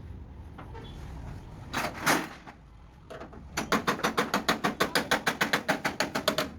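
Fast, even hammering on sheet metal, about seven blows a second, starting a little past halfway and stopping near the end, typical of panel-beating a truck cab. A short, loud scraping burst comes about two seconds in.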